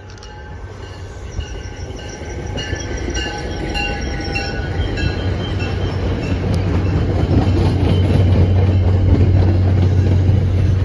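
MBTA push-pull commuter train passing close by, coaches leading and diesel locomotive pushing at the rear. The rolling of the cars grows steadily louder, with broken high-pitched wheel squeal in the first half and a deep, steady diesel engine rumble building toward the end as the locomotive nears.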